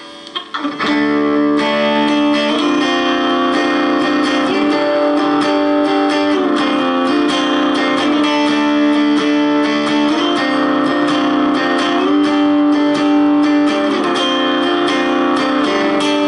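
Electric guitar playing sustained, heavily distorted chords through the high-gain drive channel of a Hehku tube preamp pedal into a 1-watt Palmer amplifier, set at very low volume. The chords change every couple of seconds.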